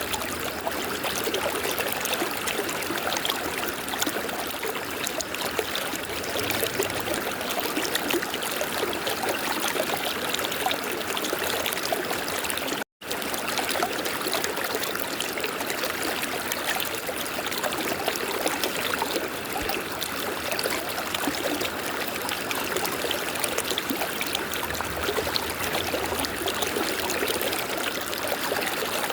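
River water flowing and babbling steadily, cutting out for an instant partway through.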